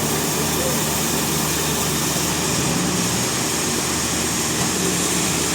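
Sawmill machinery running steadily: a constant engine hum under an even, dense hiss, with no breaks or sudden events.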